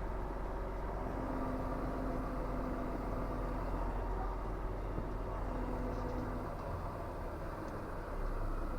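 Volvo FH 460 truck's 13-litre six-cylinder diesel engine running steadily under way, heard from inside the cab along with road noise. The engine eases off slightly about seven seconds in and picks up again near the end.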